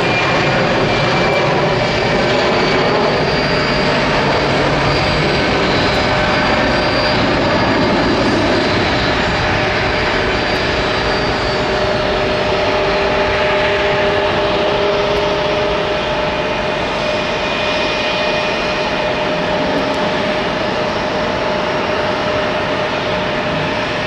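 Jet airliner's turbofan engines running steadily: a broad, continuous rush of noise with several steady whines on top, easing off slightly near the end.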